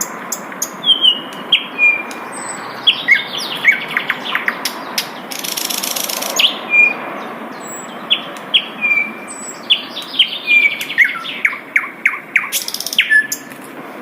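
Sikatan londo flycatcher singing a lively run of short sharp chirps and brief whistled notes. A harsh rasping burst comes about five to six seconds in and another near the end, over a steady hiss.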